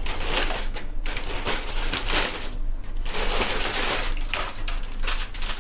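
Aluminium foil crinkling and rustling as it is peeled off the sealed biryani pot, in uneven swells.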